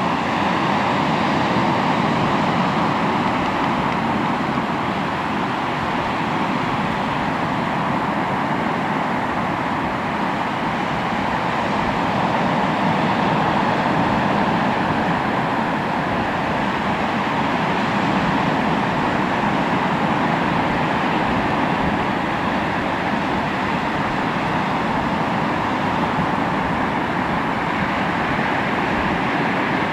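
Sea waves washing onto the shore in a continuous surf roar that swells and eases gently every several seconds.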